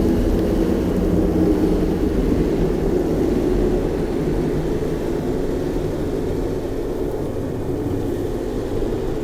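Metal Marshmallow Campfire metal toy making a steady low drone that slowly fades.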